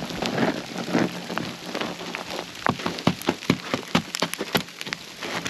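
Sleet falling, a steady hiss with many sharp, irregular ticks of ice pellets striking surfaces, thickest in the second half.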